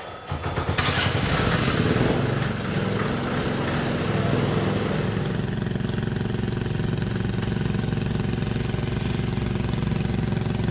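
Bowler Wildcat rally car's engine, loud: it comes in suddenly, climbs over the first second, runs higher for about two seconds, then settles into a steady, even idle.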